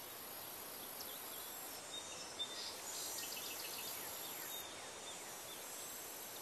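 Quiet outdoor ambience with faint bird chirps in the middle.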